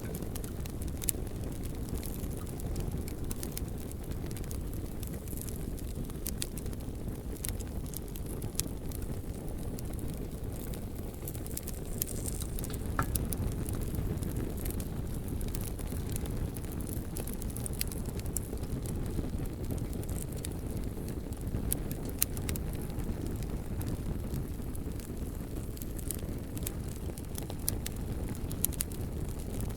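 Bonfire burning with a steady low rumble of flame and scattered sharp crackles and pops of the burning logs.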